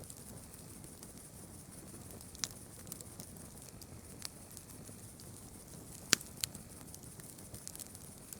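Campfire burning, with a few sharp crackles and pops from the wood over a steady high hiss; the loudest pop comes about six seconds in, followed quickly by a second.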